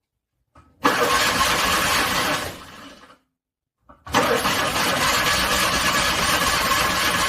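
Car starter cranking a cold engine in two attempts, each starting with a click: about a second and a half of cranking, a pause, then a longer second crank. The engine does not catch; a hard cold start.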